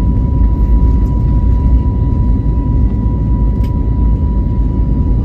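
Cabin noise inside an Airbus A321neo with its CFM LEAP engines running: a loud, steady low rumble with a thin, steady whine on top.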